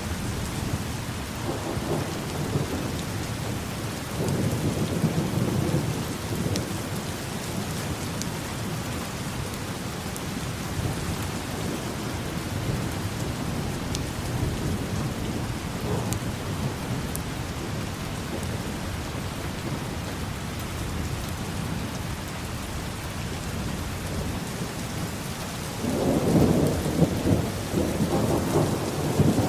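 Steady rain falling, with low rolling thunder swelling briefly about four seconds in and a louder rumble of thunder building near the end.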